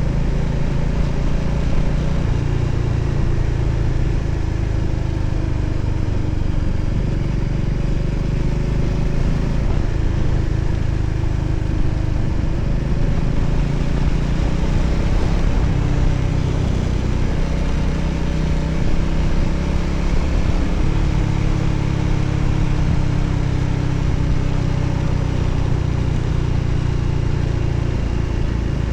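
Voge 300ACX single-cylinder motorcycle engine running under way, its pitch drifting up and down with throttle, over a steady rush of wind and road noise.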